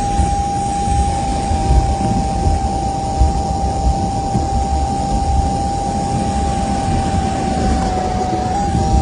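Car wash machinery running steadily: a constant loud rushing noise with a single high whine held throughout, dipping slightly near the end.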